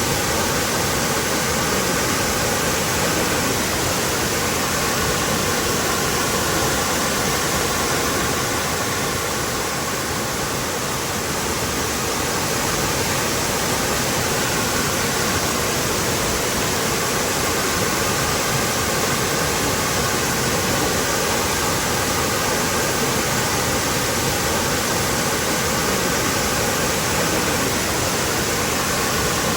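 Waterfall: falling water rushing in a steady, even wash of noise that eases slightly for a few seconds near the middle.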